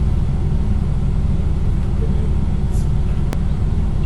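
A steady low rumble, with a single sharp click a little over three seconds in.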